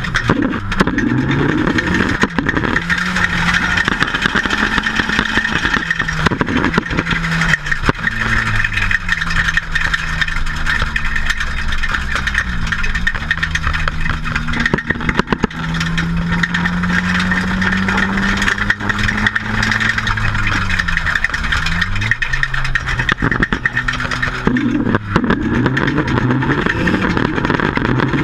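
Nissan 200SX (S14) turbocharged four-cylinder engine heard from inside the cabin, revving up and down through a drift run, its pitch climbing and dropping several times. A steady high hiss of tyre and wind noise runs under it.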